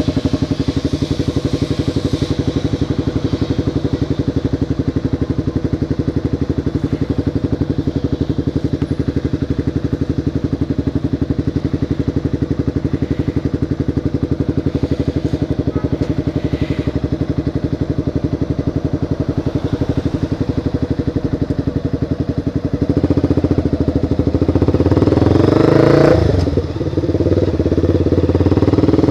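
Motorcycle engine idling steadily with an even pulse, then pulling away near the end: it revs up with rising pitch, drops briefly at a gear change, and runs on louder.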